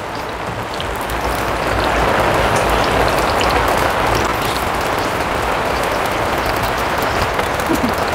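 Rain falling on a tarp canopy: a steady, even hiss that grows louder over the first couple of seconds.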